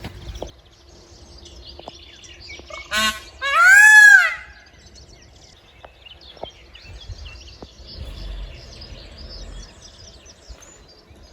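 Peacock calling once, loudly: a short harsh note about three seconds in, then a long cry that rises and falls in pitch. Small birds chirp faintly throughout.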